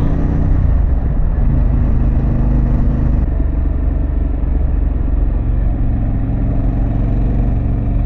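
Harley-Davidson Pan America's Revolution Max V-twin engine with a Vance & Hines exhaust, running under way at road speed. The engine note steps down about half a second in and shifts again around three seconds in.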